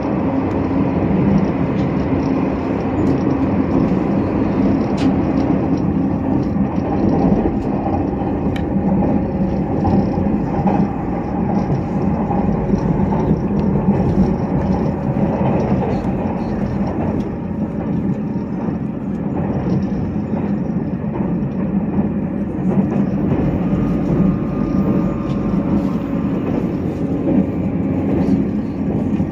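Steady running noise of a passenger train heard from inside the carriage: a continuous rumble with a faint steady hum through it.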